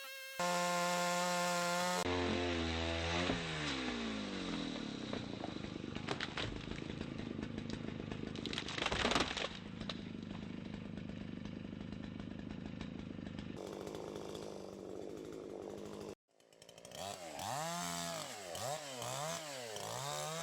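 Two-stroke JonCutter gas chainsaw running at high revs, its pitch dropping as the chain bites into a log, then cutting steadily through the wood. After a brief break near the end, the saw's engine revs up and down repeatedly.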